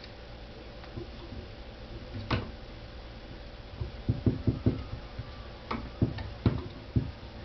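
Scattered taps and thumps of a cat playing with a cat-teaser wand toy: one knock about two seconds in, a quick run of four in the middle, then a few more spaced out near the end.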